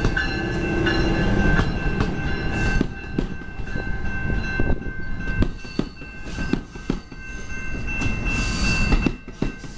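Commuter train rolling past on bi-level coaches: a low rumble with a steady high-pitched squeal from the wheels and sharp clicks as the wheels cross rail joints, most of them in the second half.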